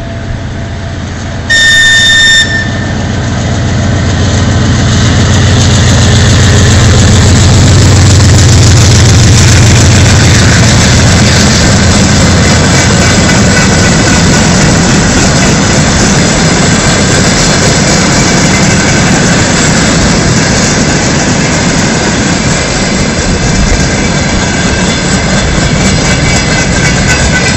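A freight locomotive sounds one short horn blast about a second and a half in. Its engine then grows louder as it passes and eases off, and a long train of tank cars and open wagons rolls by with steady wheel-on-rail noise and clatter.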